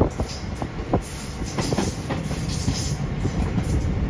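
Passenger train coaches running on the track: a steady rumble of wheels on rail, with several irregular sharp clicks as the wheels pass over rail joints.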